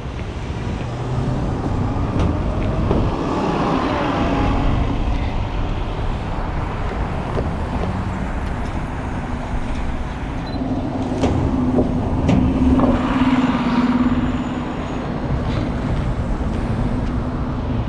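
City street traffic: motor vehicles passing with a steady roar. A deeper engine hum swells and fades about two-thirds of the way through as a larger vehicle goes by.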